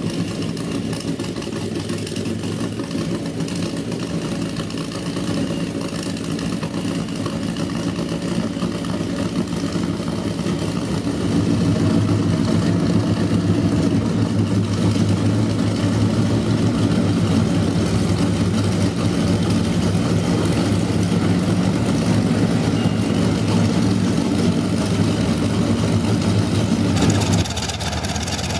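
Kamov Ka-26 helicopter's nine-cylinder radial piston engines running steadily, growing louder about eleven seconds in, with an abrupt change in the sound near the end.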